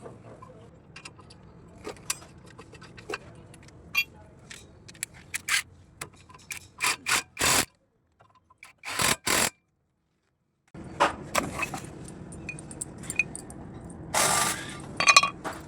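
Metal tools and parts clinking, tapping and scraping in irregular sharp knocks, with a few louder scraping rasps, broken by two short dropouts to complete silence in the middle.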